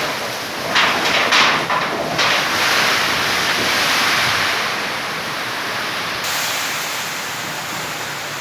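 Heavy cyclone rain falling, a steady rushing hiss, with a few louder surges in the first two seconds.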